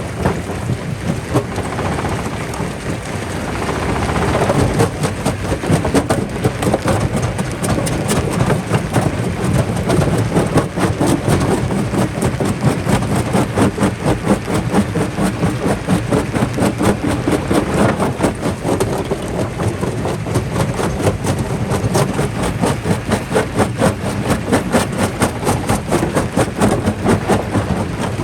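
Jaw crusher crushing rock: a loud, continuous clatter of rapid cracks and knocks over a steady low machine rumble.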